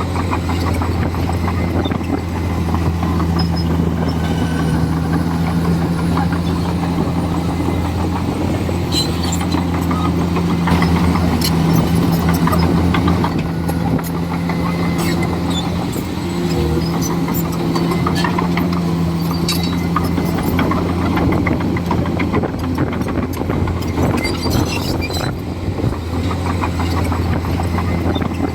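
Komatsu D41E bulldozer's diesel engine running steadily under load, its pitch dipping briefly about halfway through, with scattered sharp clanks and snaps.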